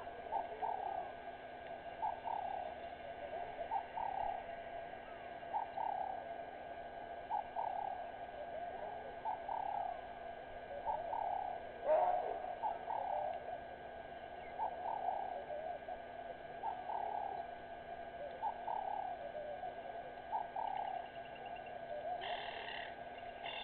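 Many birds calling at once: a dense, overlapping chorus of short, repeated mid-pitched calls, with one louder call about halfway through and some higher chirps near the end.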